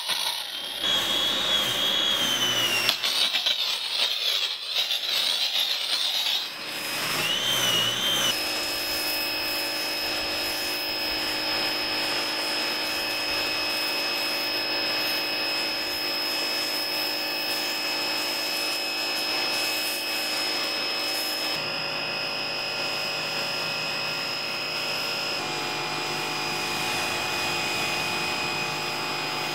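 Small pressure washer running with water spraying: for the first several seconds the sound is uneven with a wavering whine, then it settles into a steady whine that shifts slightly in pitch twice.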